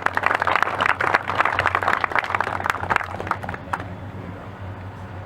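A small crowd applauding with a scattered round of hand claps that tapers off about four seconds in.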